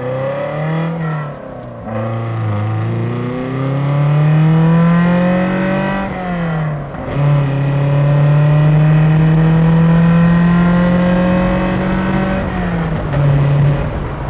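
Lotus Elise's 1.6-litre Toyota four-cylinder engine at full throttle in a 0–62 mph acceleration run. The engine note climbs in pitch through each gear and drops back at three upshifts: about a second in, about six seconds in and about twelve seconds in.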